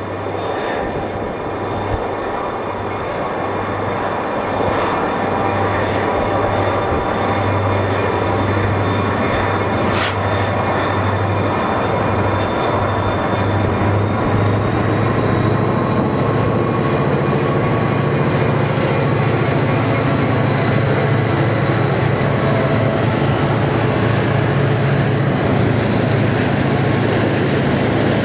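EMD diesel-electric freight locomotives working under power: a steady low engine drone with a thin high whine above it, growing gradually louder as they approach.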